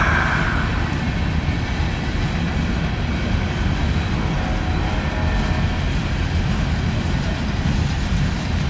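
Cars of a mixed-freight manifest train rolling past, a steady low rumble of steel wheels on rail.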